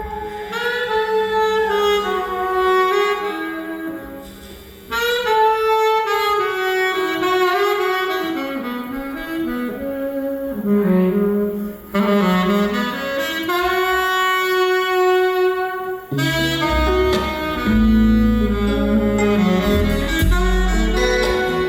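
Live saxophone solo, a single melodic line with sliding notes and short breaks, played over sparse backing; about three-quarters of the way through, the full band with bass comes back in underneath it.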